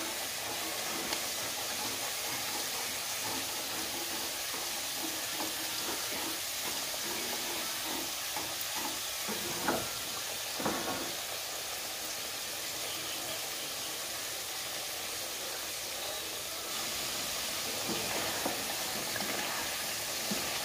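Sweet potato chunks frying in hot oil and sugar in a pan: a steady sizzling hiss, with a couple of short knocks near the middle. The sugar is caramelizing around the pieces.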